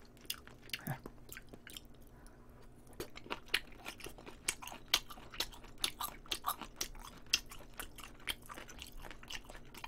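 Chewing of chicken gizzard close to a microphone: small, crisp, wet crunching clicks, sparse at first and coming several times a second from about three seconds in.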